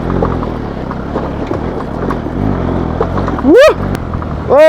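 Single-cylinder Bajaj Pulsar NS200 motorcycle engine running while riding, with road noise. About three and a half seconds in comes a brief loud tone that rises and falls, and right at the end a loud steady horn blast starts.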